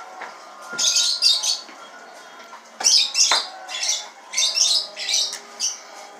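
A bird squawking and chirping in short, shrill bursts, about one or two a second.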